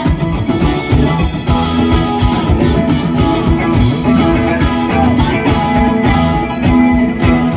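Rock band playing an instrumental jam, electric guitar lines over bass and a steady drum beat.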